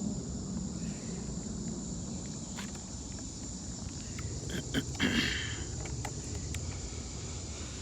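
Insects trilling steadily in one unbroken high note, with a few faint clicks and a short louder rustle about five seconds in.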